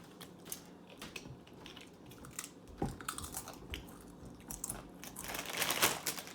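Crunchy Doritos tortilla chips being chewed, with scattered sharp crackles, and a louder rustle of the chip bag about five seconds in.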